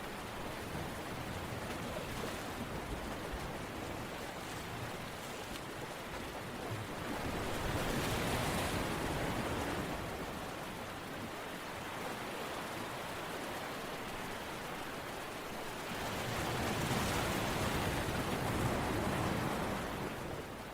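Steady rushing water that swells louder twice, about eight and seventeen seconds in, then eases back.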